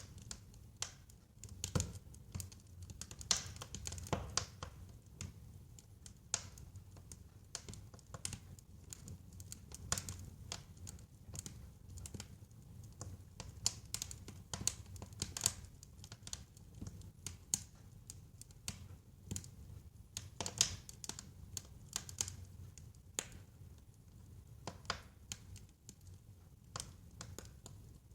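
Wood fire burning in a fireplace: a steady low rumble of flame with irregular sharp crackles and pops of burning logs, several a second at times, a few louder snaps scattered through.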